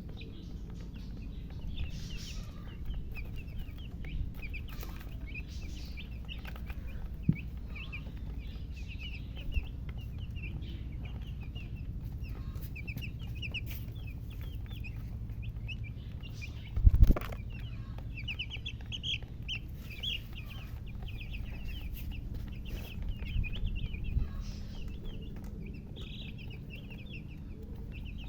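Newly hatched chicken chicks peeping: many short, high chirps in quick runs throughout, over a low steady hum. A single loud thump comes about two-thirds of the way through.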